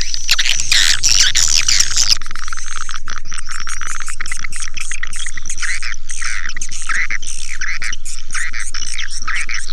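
Swiftlet lure call: a recording of edible-nest swiftlets twittering and chirping in a dense, rapid stream, as played to attract swiftlets into a nest house. About two seconds in, the sound changes to a more even run of chirps.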